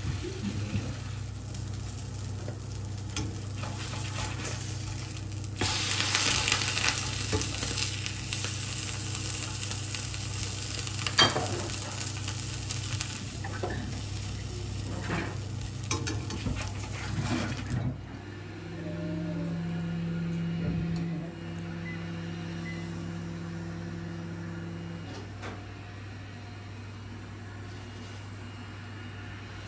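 Grilled cheese sandwich sizzling in a stainless steel frying pan, with the scrape and tap of a spatula against the pan; the sizzle gets louder about six seconds in, and a sharp clack comes about eleven seconds in. About eighteen seconds in the sizzling stops and a steady low hum takes over, with a higher steady drone for several seconds.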